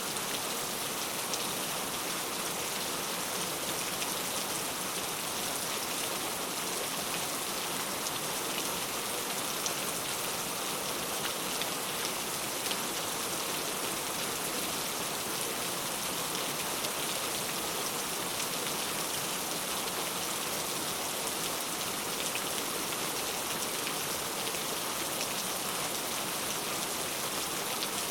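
Steady rain with many fine drops pattering on a surface.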